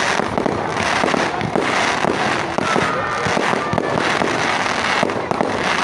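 Fireworks display going off in a dense, continuous barrage of crackling and sharp bangs, with a short whistle about three seconds in.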